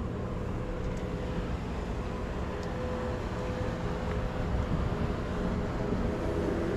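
An engine running steadily nearby, a low drone with a faint steady hum that gets slightly louder near the end.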